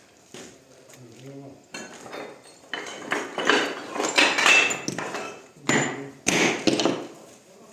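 Hammer knocking on stone cladding: a quick, irregular run of sharp hits and clatter, loudest in the middle and again near the end.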